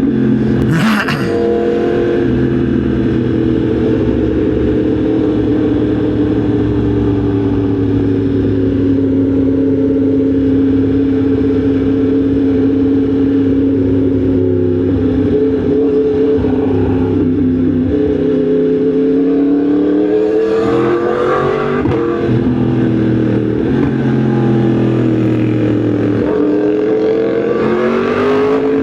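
Yamaha MT-10 SP's crossplane inline-four engine under way, running at a steady cruise and then pulling up through the revs. It changes up twice, about two-thirds in and again near the end.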